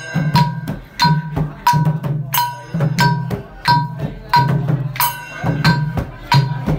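Khmer chhay yam festive percussion: long drums beaten in a brisk, even rhythm, each stroke joined by a ringing metal clash from small hand cymbals or a gong.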